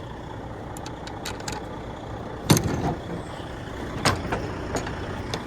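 Heavy truck engine idling with a steady low rumble. Two sharp knocks come about two and a half and four seconds in.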